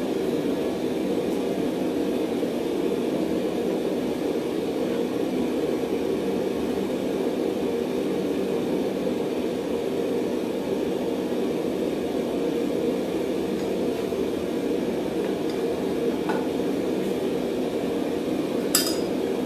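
Steady roaring hum of a running forge, even in level throughout. There is a light metallic click about three-quarters of the way through and a sharper metal clink near the end.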